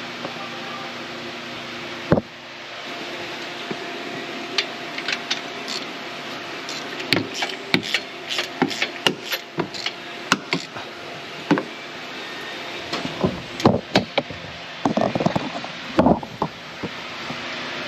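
A steady mechanical hum, like an engine running, under many irregular sharp metallic clicks and knocks from about four seconds in until near the end.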